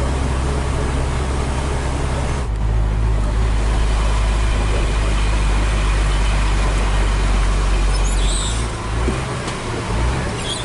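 Hino 500 FM320TI truck's diesel engine running under a heavy load, heard from inside the cab with road noise. About two and a half seconds in the engine note changes sharply, and near the end it drops and wavers.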